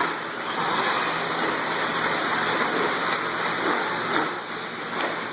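Electric radio-control short course trucks racing on a dirt track: a steady rush of motors and tyres with a faint whine.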